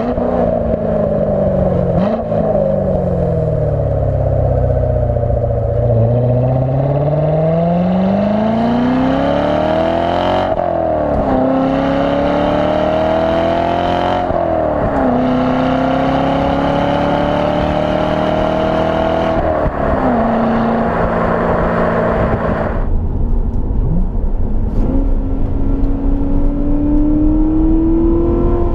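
2016 Corvette Stingray Z51's 6.2-litre V8 through the dual-mode exhaust, driving: the revs fall for the first several seconds, then the car accelerates hard, the pitch climbing and dropping sharply at upshifts about ten, fourteen and twenty seconds in. It eases off a few seconds later and the revs then build slowly again.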